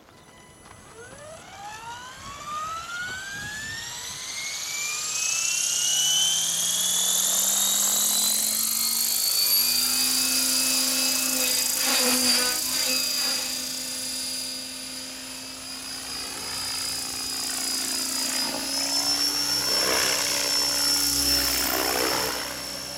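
Align T-REX 600E electric RC helicopter spooling up. The motor and drivetrain whine rises steadily in pitch for about ten seconds, then holds at head speed. The rotor noise swells and eases a couple of times in the second half.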